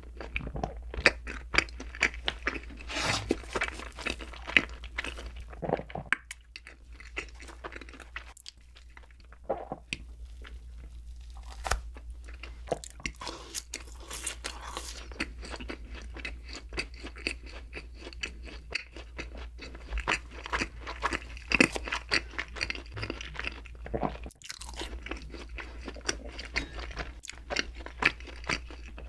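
Close-miked eating of donuts: repeated biting and wet, crunchy chewing with irregular crackles, a few louder bites standing out. A faint steady low hum lies underneath.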